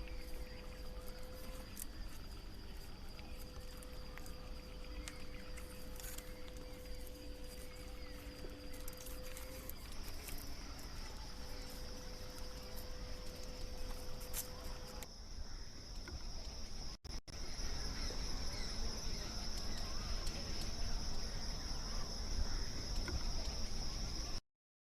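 Insects shrilling in a steady, high drone, joined by a lower steady tone for the first half, with scattered faint clicks. The high drone gets louder about fifteen seconds in.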